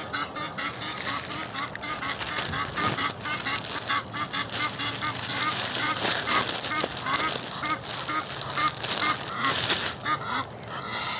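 A flock of birds calling continuously, many short calls overlapping several times a second.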